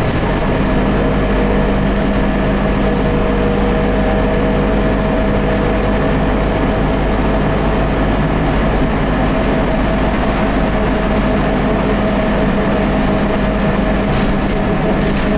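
Scania K94UB bus's 9-litre five-cylinder turbocharged DC9 diesel running steadily, its whine holding one pitch without a rev change or gear shift, with light rattles over it.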